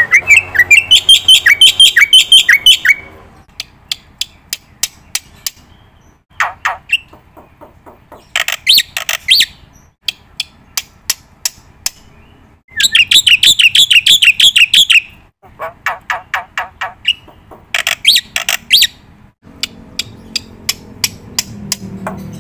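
A bird chirping in rapid runs of short, high notes, in several separate bouts with sudden breaks between them.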